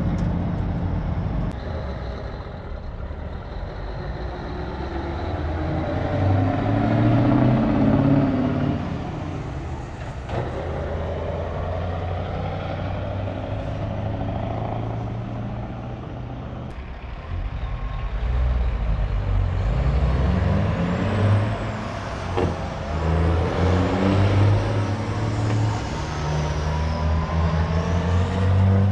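Heavy diesel semi-truck engines running, a low rumble that swells and fades several times as the trucks rev and move.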